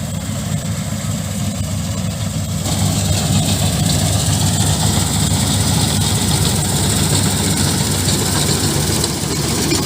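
Combine harvester's diesel engine running steadily under load with the rattle and rush of its threshing works; about two and a half seconds in, the sound grows louder and fuller and holds there.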